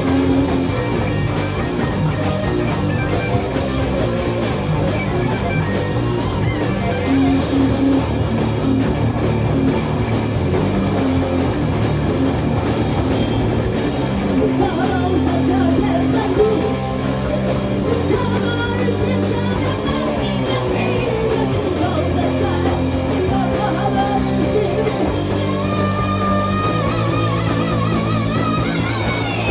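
Rock band playing: electric guitar, bass and drum kit, with a lead singer's voice coming in over the band about halfway through.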